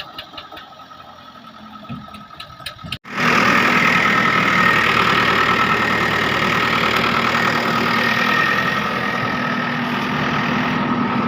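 Diesel engine idling with a regular chugging pulse. About three seconds in the sound cuts out abruptly and a much louder engine takes over, running hard at a steady speed with a high whine over it.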